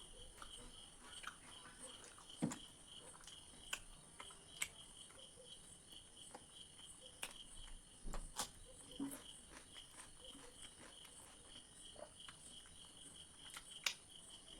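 Close-up eating sounds: quiet chewing with scattered sharp mouth clicks and smacks as paneer curry is eaten, a few louder ones about two and a half seconds in and near the end. Under it, a steady fast-pulsing chirp of crickets.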